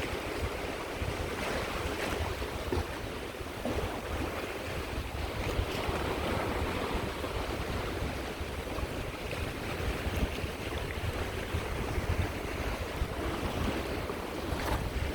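Sea waves washing onto the shore, a continuous surf noise with a low rumble and wind buffeting the microphone.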